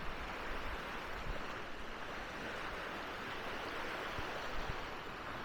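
Sea waves washing onto a sandy beach: a steady wash of surf that swells gently around the middle.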